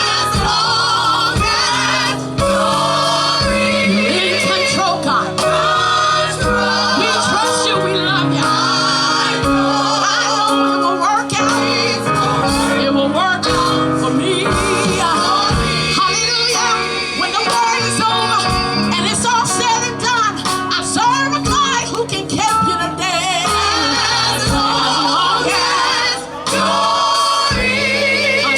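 Gospel vocal group singing with instrumental backing, several voices together with wavering, held notes over a steady bass line.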